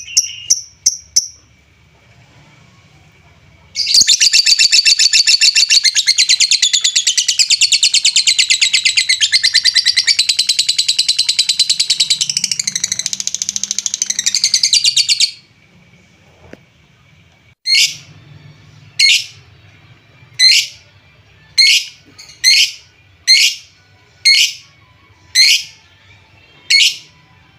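Lovebird singing: a long, loud, rapid chattering trill lasting about eleven seconds. After a short pause come about nine single sharp high chirps, roughly one a second.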